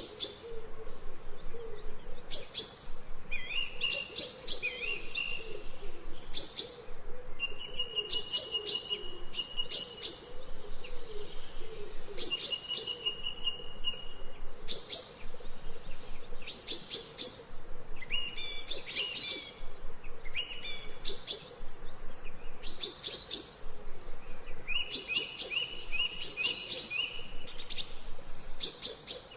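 Ambient birdsong: small birds chirping, with a short high trilled phrase repeating every second or two over fainter, lower warbling calls.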